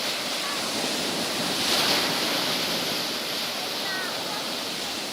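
Surf washing onto a beach, a steady rush that swells about two seconds in as a wave breaks, with a few faint, brief high calls over it.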